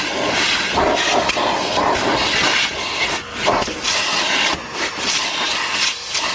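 Henry canister vacuum cleaner running, its hose nozzle sucking at the car's upholstery and carpet. The hiss of the suction rises and falls as the nozzle moves, with brief rattles of debris going up the hose.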